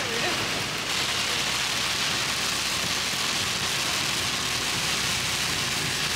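Heavy rain drumming on a moving Ford Transit van's windscreen and body, heard from inside the cab as a steady hiss, with the low hum of the van's engine and tyres on the wet road underneath.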